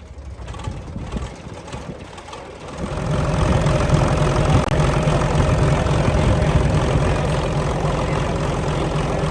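A car engine, faint at first, comes in loud about three seconds in and then runs steadily at idle with a fast low pulsing.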